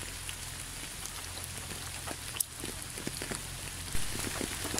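Steady rain with many scattered drops pattering on a surface, with a low, steady hum underneath.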